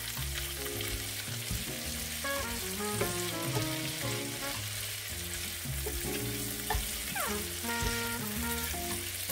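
Sliced potatoes, bell peppers and onions sizzling as they sauté in oil and butter in a pan, stirred with a spatula. Background music with a melody of changing notes plays over the frying.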